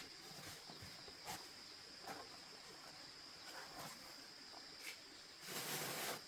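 Faint, steady, high-pitched insect drone with scattered light taps and handling sounds. A louder rustle lasts about a second near the end.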